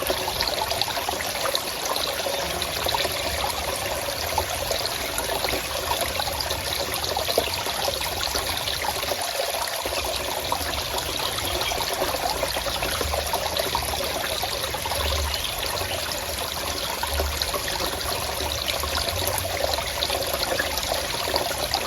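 A forest stream's water trickling and splashing steadily over stones, with no let-up.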